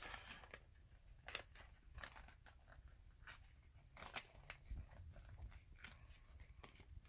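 Faint crinkling of a sheet of paper being folded and creased by hand, a string of small irregular crackles.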